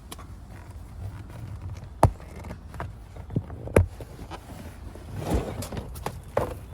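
A few sharp knocks and thumps, one to two seconds apart, and a short rustle, over a steady low rumble.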